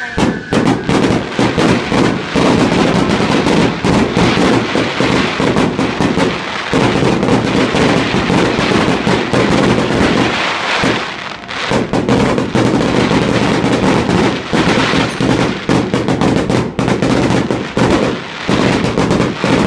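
Fireworks display: a dense barrage of aerial shells bursting in rapid, overlapping bangs and crackles with hardly a pause. It slackens briefly a little past halfway.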